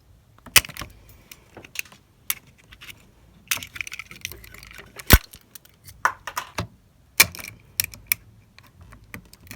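Irregular metallic clicks, clinks and knocks of hand tools and parts being handled during engine work, with one sharp knock about five seconds in.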